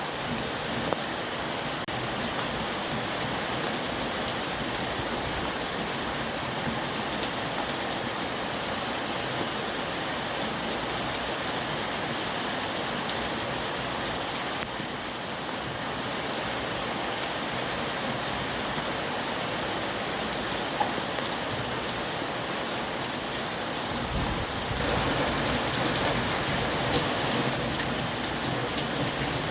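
Heavy rain falling steadily on surfaces, a dense even hiss of drops. It grows louder and fuller for a few seconds near the end.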